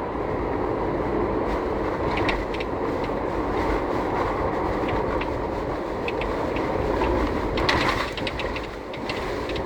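Inside the cabin of a fifth-generation Honda CR-V on the move: steady road and tyre rumble with scattered light rattles from near the windshield, a rattle traced to loose rubber caps.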